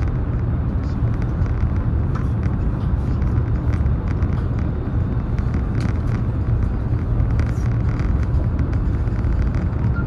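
Steady low rumble and rush of a high-speed train running at speed, heard from inside the passenger carriage, with a few faint light ticks.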